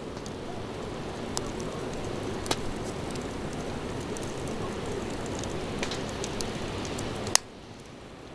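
Wood campfire burning with a steady hiss and a few sharp crackles and pops. The loudest pop comes near the end, and the hiss drops away suddenly right after it.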